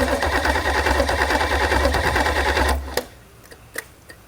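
Starter motor cranking a marine 5.7-litre Chevrolet V8 in a quick, even rhythm without the engine catching; the cranking cuts off about three seconds in, leaving a few faint clicks.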